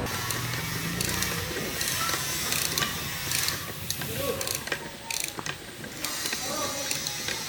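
Hand tools working on metal engine parts: irregular runs of sharp mechanical clicks and ratcheting. A low hum stops a little over a second in.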